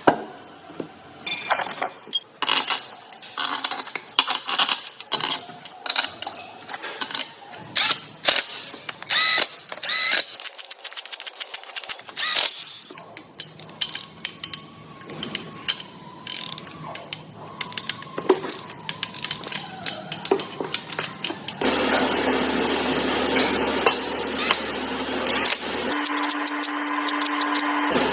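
Ratchet wrench clicking and metal tools clinking against engine parts in quick irregular bursts. About twenty-two seconds in, a steady machine whir takes over.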